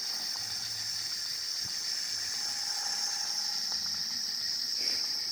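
Steady, high-pitched chorus of insects such as crickets, running without a break.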